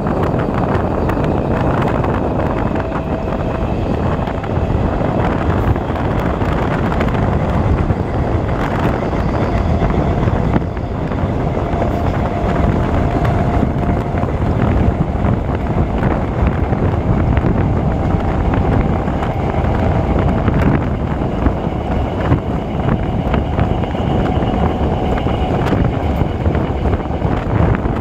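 EMU local train running with a steady noise and wind buffeting the microphone, faint high tones coming and going and scattered small clicks.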